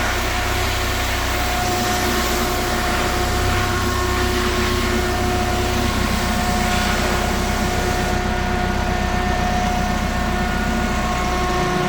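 Mercedes-Benz OM651 four-cylinder turbodiesel (651.924) idling steadily.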